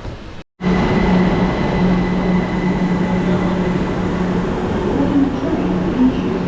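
Train running on the rails: a loud, steady rumble with a constant low hum, starting suddenly about half a second in.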